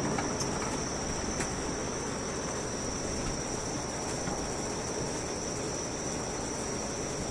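Insects chirring in one steady, unbroken high-pitched tone over a low background rumble.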